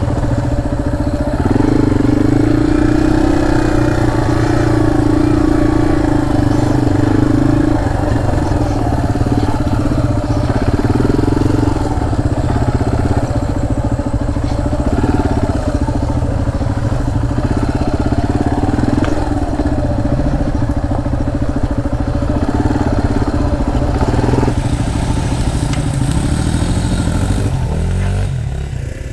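Dirt bike engine running steadily while riding trails, its pitch wavering slightly with the throttle, then dropping away near the end.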